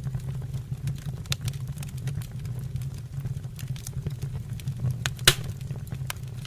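Wood fire in a fireplace crackling, with irregular sharp pops and one louder snap about five seconds in, over a steady low hum.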